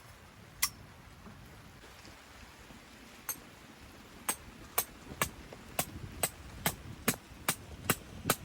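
Tent peg being driven into the ground with a peg hammer: two single strikes, then steady blows about two to three a second from about four seconds in.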